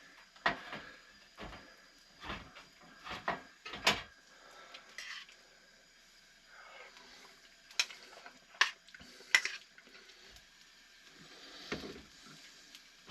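Irregular clicks, knocks and light clatter of hard objects being handled and set down, about a dozen sharp hits spread through the span, the loudest a few seconds in and again past the middle.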